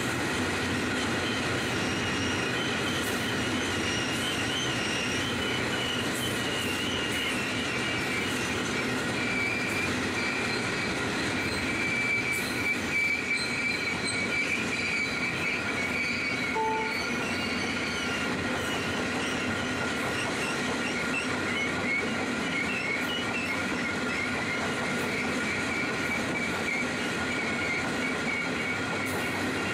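Freight train of coal hopper wagons rolling steadily past, the wheels squealing in high, wavering tones over a constant rumble of wheels on rail.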